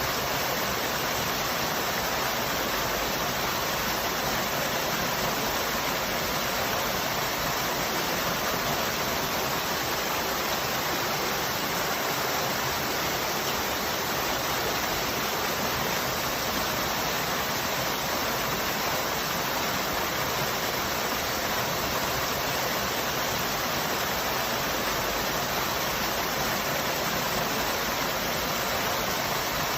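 Waterfall: falling water making a steady, even rush without breaks or changes.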